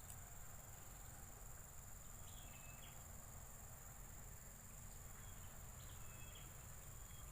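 Faint, steady insect chorus of crickets with a continuous high-pitched trill, with a few short, faint chirps about two seconds in and again near the end.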